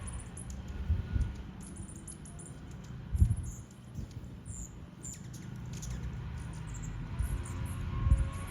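Hummingbirds chipping: many short, very high chip notes in quick runs throughout, over a steady low hum and a few low rumbles, the loudest about three seconds in.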